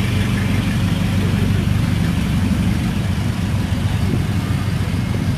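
Car and pickup engines idling in slow, nearly stopped traffic: a steady low engine hum.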